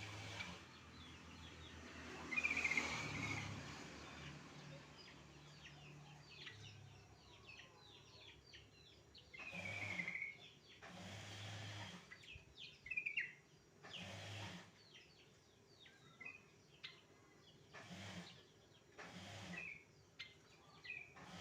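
Wild birds chirping, with many short calls throughout and brief bursts of rushing noise every few seconds.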